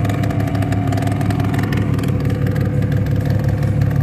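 Cummins turbo-diesel straight-six of a 2012 Dodge pickup with a full exhaust, running at a steady speed with an even, deep drone.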